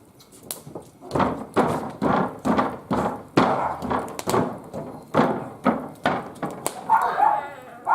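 Footsteps: a steady run of dull thuds at walking pace, about two a second, followed by a brief higher wavering sound near the end.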